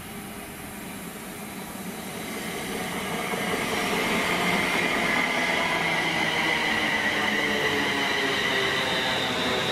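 A train approaching on the line, growing louder over about two seconds and then running past steadily.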